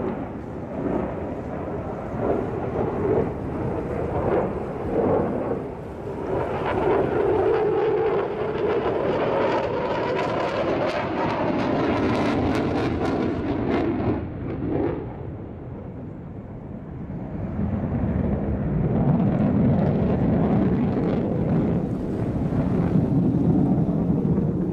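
Fighter jet engine noise from an airshow flying display: loud and continuous, easing off a little past the middle and building again toward the end.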